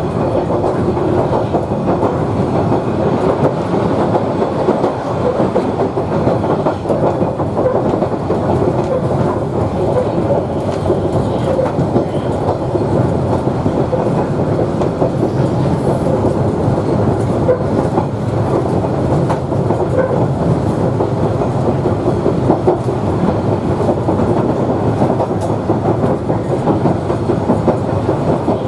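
Queensland Rail 2000 class railcar running along the track: a steady noise of the railcar and its wheels on the rails.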